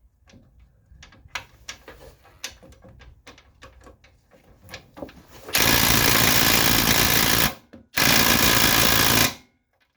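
Light clicks and handling, then an impact wrench hammering in two bursts of about two seconds and a second and a half, with a short pause between, run forwards on a seized suspension fastener as part of working it back and forth. The fastener does not budge.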